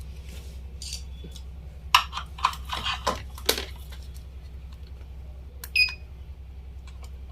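A few sharp clicks and knocks of small parts being handled, then, near the end, a single short electronic beep, over a steady low hum.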